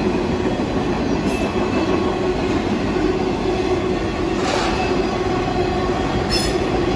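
Union Pacific freight train of autorack cars rolling past with a steady rumble of wheels on rail, and brief high-pitched wheel squeals a couple of times in the second half.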